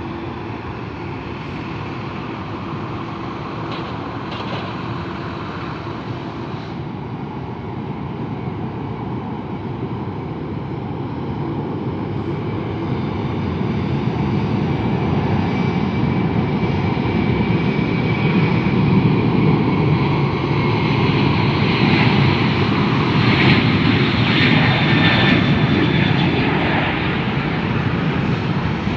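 Jet airliner's engines, a steady rushing noise that grows louder about halfway through and stays at its loudest near the end, with a faint high whine over it.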